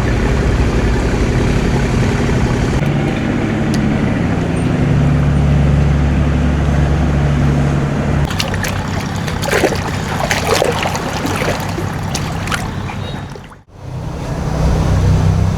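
Boat engine running steadily with water rushing and splashing around the hull. The sound drops out abruptly for a moment near the end, then the engine noise comes back.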